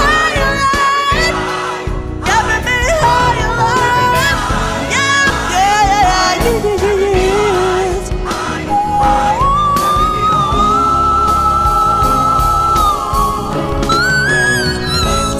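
A solo singer ad-libbing fast melismatic vocal runs over backing music, holding one long high note from about halfway through, then breaking into another high run near the end.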